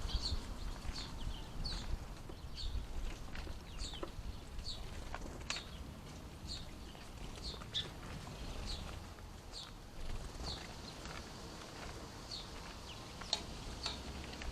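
Small garden birds chirping: short, high call notes repeated every half second or so, over a faint low background rumble.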